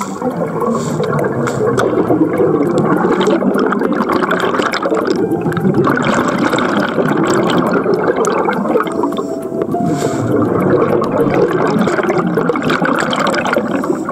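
Water rushing steadily.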